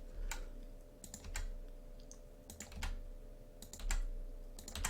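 Scattered keystrokes and clicks on a computer keyboard, single taps and short runs at irregular intervals, over a faint steady hum.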